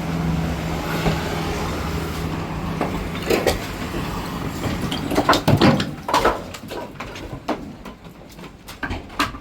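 A truck engine runs steadily, then fades after about two seconds. A series of irregular knocks and clatters follows, loudest about halfway through.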